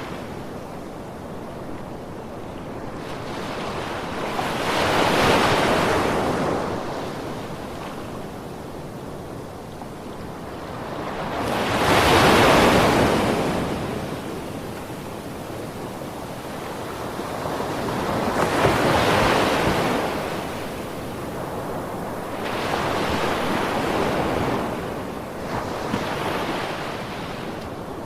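Ocean waves breaking on a beach, each one swelling and washing out in a slow rhythm, about five waves, the loudest about twelve seconds in.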